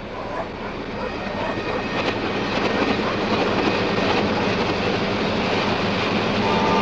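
Sound-effect recording of a passing train played backwards, so its rumble swells steadily louder instead of fading away. A few steady tones come in near the end.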